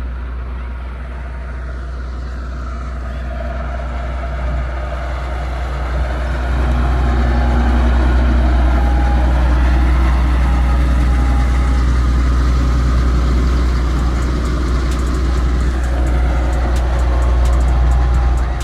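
Heavy diesel engine running steadily with a deep low rumble, working harder from about six seconds in, as material is loaded onto a truck. It cuts off abruptly at the end.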